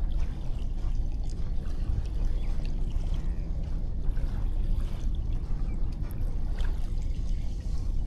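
Sea waves washing onto a sandy beach: a steady rushing with a heavy low rumble and faint scattered ticks.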